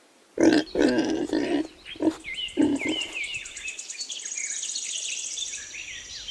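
Domestic pig grunting several times in the first three seconds. Birds chirp behind it, and a fast, high trill runs through the second half.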